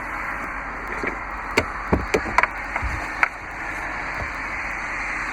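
A handful of short, sharp knocks and clicks in the first three and a half seconds, over a steady background hiss.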